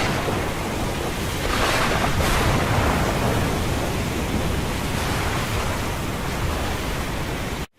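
Storm wind and heavy seas around a ship: a loud, steady rushing noise with a few surges, and wind buffeting the microphone. It cuts out suddenly for a moment near the end.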